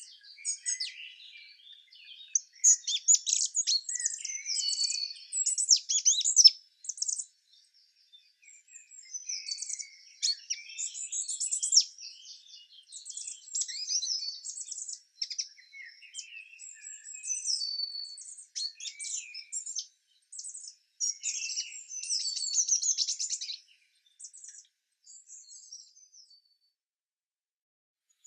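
Songbirds chirping and singing, with many quick high-pitched chirps and trills overlapping and short pauses between phrases. The song thins out over the last few seconds and stops near the end.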